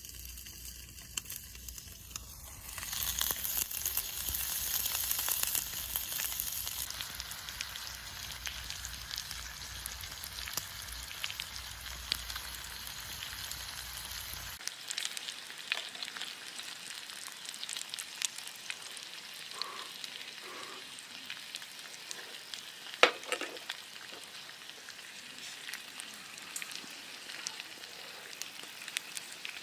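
Food sizzling as it fries in a hot pan, a steady hiss with scattered small crackles, loudest a few seconds in. One sharp knock about two-thirds of the way through.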